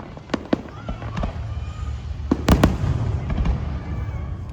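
Aerial fireworks going off: scattered sharp bangs over a continuous low rumble, with the loudest quick cluster of bangs a little past halfway.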